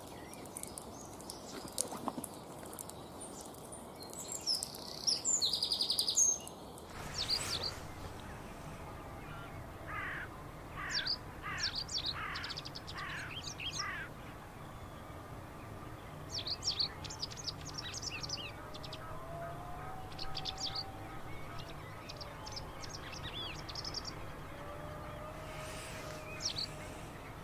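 Wild songbirds calling and singing: short high chirps and a quick trill, then, after a change of recording about seven seconds in, a run of falling notes, clusters of high chirps and a few low drawn-out whistles.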